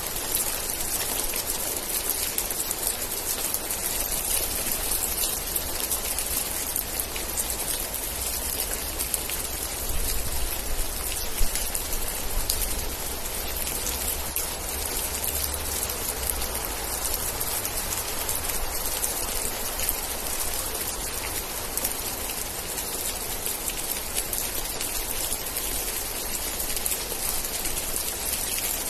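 Steady rain falling, a dense even hiss of drops, with a low rumble swelling for a few seconds about a third of the way in.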